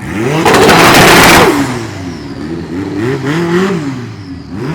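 Car engine revved hard several times, the exhaust loudest and harshest in a burst about half a second to a second and a half in, then two shorter rising-and-falling revs.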